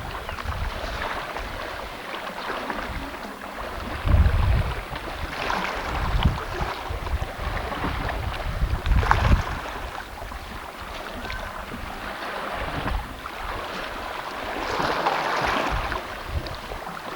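Sea water splashing and lapping, with wind buffeting the microphone in uneven low gusts.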